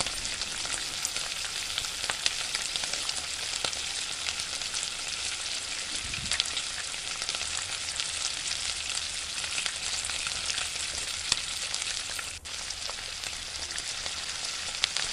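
Tomato and onion masala sizzling steadily in oil in a nonstick kadhai, with fine crackling throughout.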